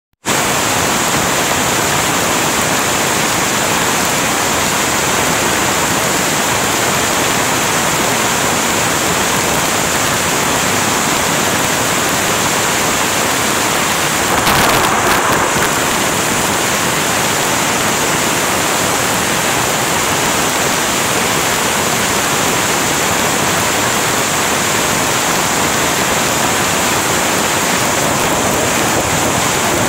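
Heavy rain falling steadily, an even hiss of water, with a brief louder swell about halfway through.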